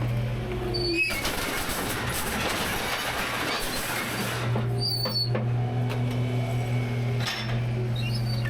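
Rear-loader garbage truck's engine running steadily. A loud rushing noise starts about a second in and lasts about three seconds, with short high squeaks near its start and just after it ends.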